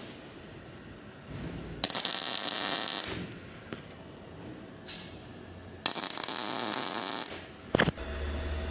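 Electric welding arc crackling in two short bursts of about a second each, laying short welds on the steel door frame. A couple of sharp knocks near the end.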